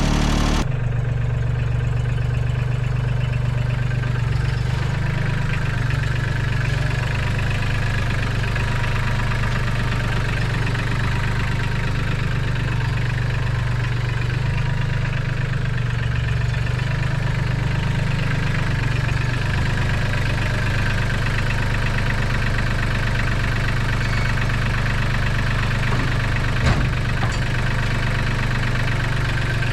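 Engine idling steadily, with one sharp knock or clank about twenty-seven seconds in.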